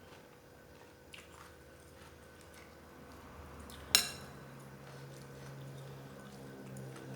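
Faint clicks of eating utensils against dishes, with one sharp clink about four seconds in.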